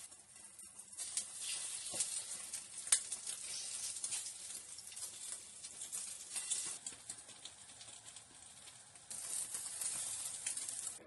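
French toast frying in a hot pan: a steady sizzle with many small crackling pops, briefly louder about nine seconds in.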